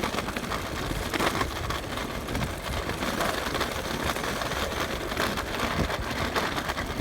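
Wind buffeting the phone's microphone, with steady tyre and road rumble from a Bird electric scooter being ridden.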